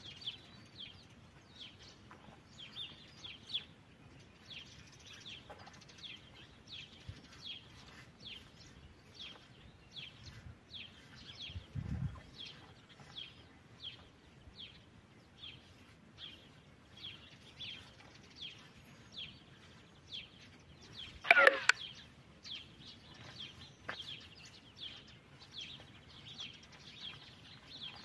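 A small bird calling over and over in short, high, downward chirps, two or three a second, over faint outdoor noise. About two-thirds of the way through, a brief loud burst of sound cuts in, louder than anything else.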